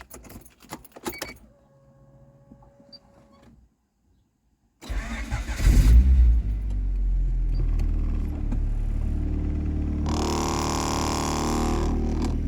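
Keys jingling at the ignition and a faint steady tone, then a freshly rebuilt Honda H23-internals-in-H22-block DOHC VTEC four-cylinder engine starts about five seconds in, flaring briefly before settling into a steady cold idle. A brighter, noisier sound joins for about two seconds near the end.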